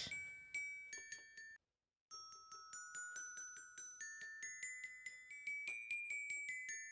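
Light background music of bell-like struck notes in a simple, steady run, cut off by a brief dead silence about one and a half seconds in before the notes resume.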